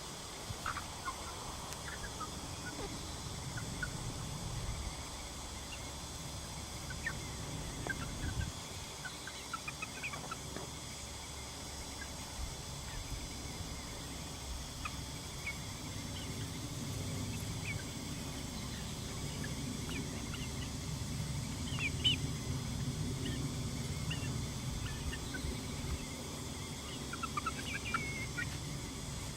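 Icelandic chickens foraging, giving scattered short clucks and high peeps, with a steady low rumble underneath.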